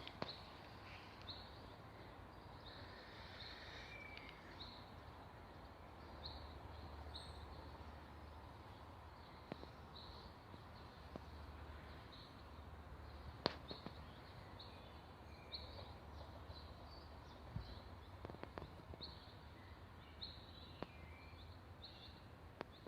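Faint garden ambience: a small bird chirping over and over in short high notes, about one a second, over a low steady rumble. A few sharp clicks stand out, the clearest about halfway through.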